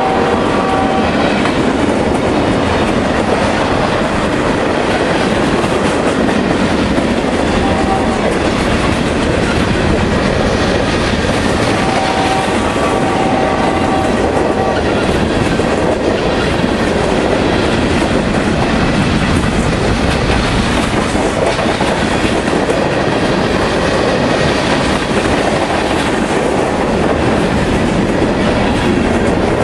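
Freight train of tank cars and covered hopper cars rolling past, its steel wheels running steadily and loudly on the rails.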